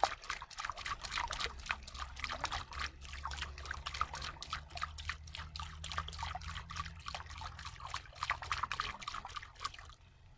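Water trickling and pouring in quick, uneven little splashes and plops. It stops abruptly just before the end.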